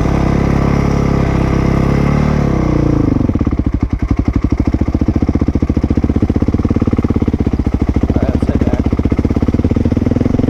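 Dirt bike engine running at a steady speed, then dropping about two and a half seconds in to a slow, lumpy idle with each firing pulse plainly heard, then picking up again near the end.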